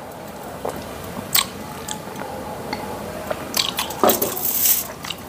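Close-up eating sounds: people chewing Korean egg sandwiches of soft bun, egg and cheese, with wet mouth clicks and smacks. The clicks are scattered at first and come thicker and louder about three and a half seconds in.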